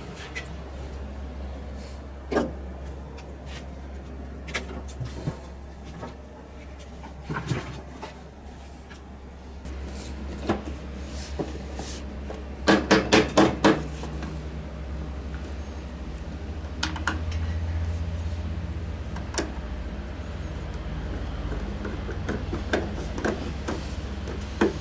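Microwave casing and parts being handled and fitted back together: scattered clicks and knocks, with a quick run of about five louder knocks about halfway through, over a steady low hum.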